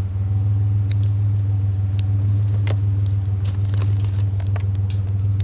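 A vehicle engine idling steadily with a low hum, with a few light clicks and knocks of scrap being handled.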